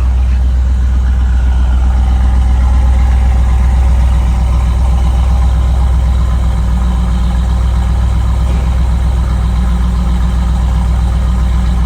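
1989 Pontiac Firebird Formula's 350 cubic-inch (5.7 L) V8 idling steadily through its exhaust.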